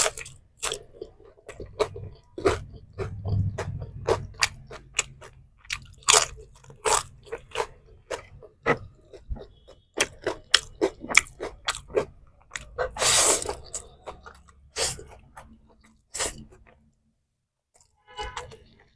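Close-up chewing of crunchy food, with many sharp, irregular crunches as a mouthful is bitten and chewed, then a short pause near the end.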